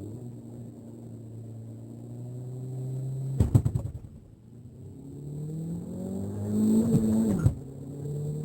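2014 Peugeot 308's 1.6 litre four-cylinder turbocharged petrol engine under hard acceleration, its pitch climbing steadily, then dropping twice as the gears are changed, about three and a half and seven seconds in. The first change comes with a brief burst of loud knocks.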